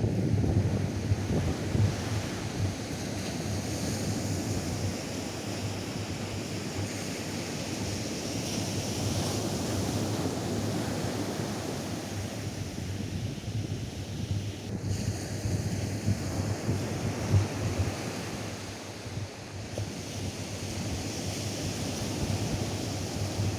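Atlantic surf washing onto a sandy beach, the hiss of the wash swelling and easing, with wind buffeting the microphone as a fluctuating low rumble.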